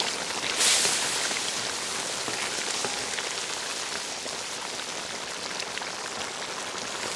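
Food sizzling and frying in hot fat in a pan: a steady hiss that swells about half a second in, then holds even.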